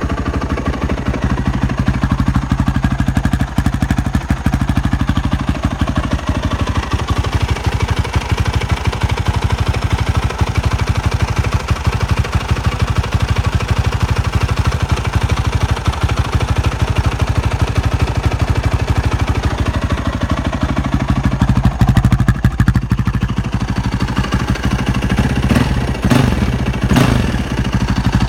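2005 Yamaha WR450F's single-cylinder four-stroke engine idling steadily through an FMF Powerbomb header and Q4 slip-on muffler, warming up after a cold start. Near the end the throttle is blipped twice, the revs rising and falling quickly each time.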